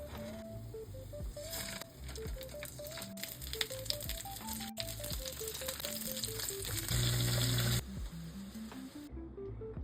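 Bratwurst sizzling as it fries in a pan, a steady crackling hiss, under a simple background melody. A loud low hum sounds for under a second about seven seconds in.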